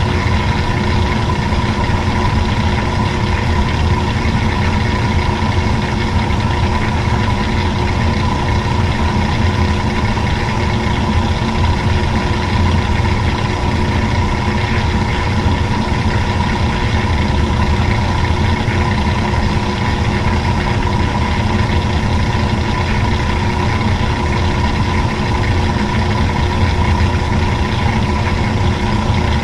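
Washing machine running steadily: an even motor hum with a few fixed tones over a low rumble.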